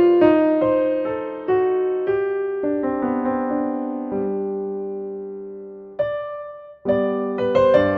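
Background piano music: single notes and chords struck and left to ring out, with a brief near-break about seven seconds in before the playing resumes.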